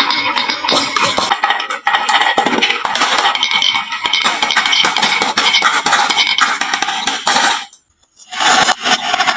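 Many marbles clattering and clicking as they roll down a wooden marble-run slope, a dense, continuous rattle that stops briefly a little before the end and then starts again.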